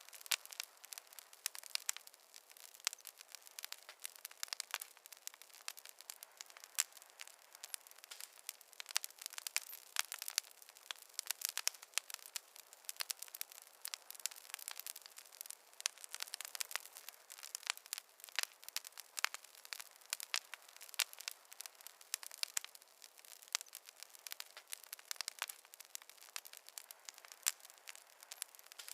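Fireplace fire crackling: a steady, irregular run of sharp pops and snaps over a faint hiss, with no low roar.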